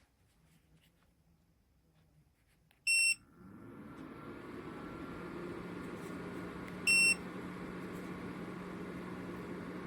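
Small portable PTC electric space heater beeping as it is switched on, then its fan starting and running with a steady hum. It beeps once more about four seconds later, as a setting is changed.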